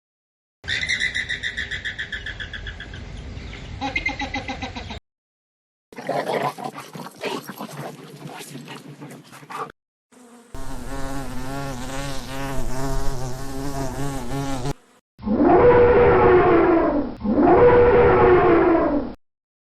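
A string of short animal recordings cut one after another: a fast, evenly pulsing insect-like buzz in the first seconds, then other animal sounds, and two long pitched calls near the end.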